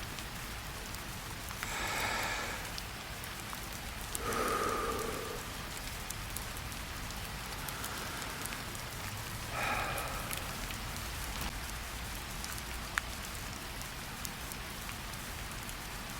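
Steady rain falling, an even hiss, with three soft breaths about two, four and ten seconds in.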